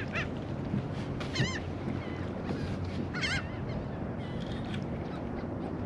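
Seabirds calling: a few short, wavering calls, the clearest about three seconds in, over a steady background of wind and water noise.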